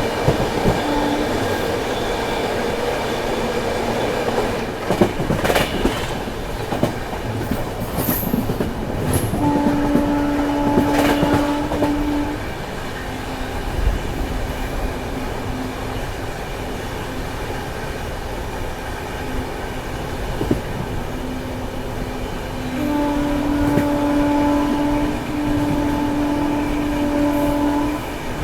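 Train running on the rails with a steady rumble and a few sharp clacks about five seconds in. A train horn sounds in a long held blast about ten seconds in, and twice more near the end.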